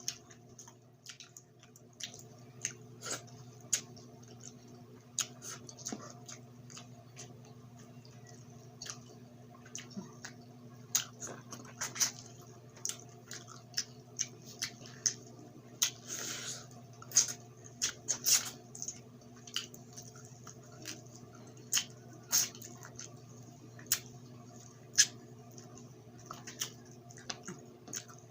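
Close-miked eating sounds: wet mouth smacks and chewing with irregular sharp crunches and clicks as a grilled chicken head is bitten and chewed, over a steady low hum.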